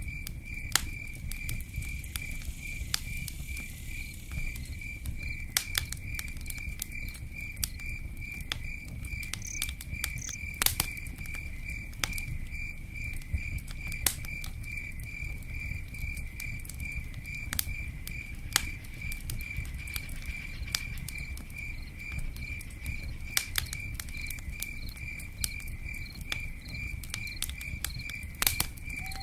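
Crickets chirping steadily at about two chirps a second, over the sharp pops and crackle of a campfire and a steady low rumble.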